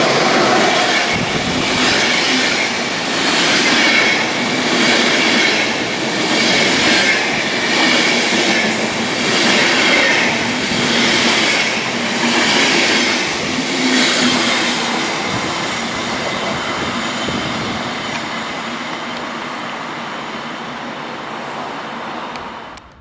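Intercity train behind a DB class 101 electric locomotive rolling past close by, its coaches' wheels on the rails swelling and easing about once a second as each bogie goes by. From about fourteen seconds in the sound fades steadily as the train pulls away, and it cuts off just before the end.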